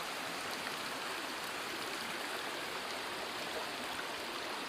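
Water running steadily, the even rushing of a stream.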